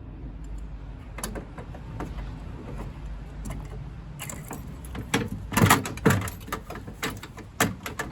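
Irregular clicks, knocks and clunks of tools and metal parts as a combi boiler component is worked at. The part is stuck on. The clatter gets louder and busier about five seconds in.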